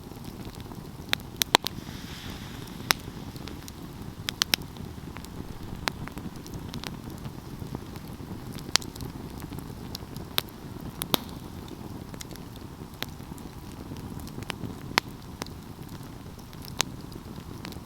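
Wood fire burning with a steady low rumble and sharp crackles and pops at irregular intervals, roughly one a second, some coming in quick pairs.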